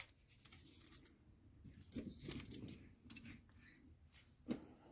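Faint light metallic jingling and rustling from bird toys and perches being handled on store display hooks, with a few brief clinks about two seconds in and again near the end.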